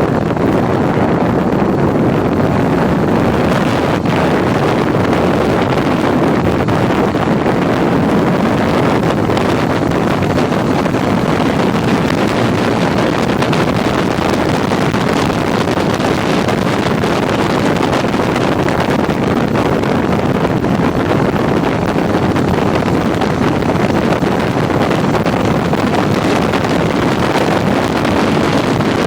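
Steady wind rush on the microphone over a motorcycle's running engine while riding along the road.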